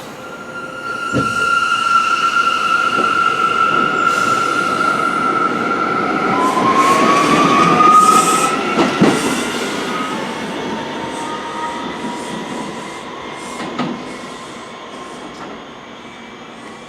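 New York City subway train moving slowly, its steel wheels squealing against the rails in a high, steady tone that slides up in pitch about two-thirds of the way in, with a few sharp clunks over rail joints. It grows to its loudest about eight seconds in, then fades as the train draws away.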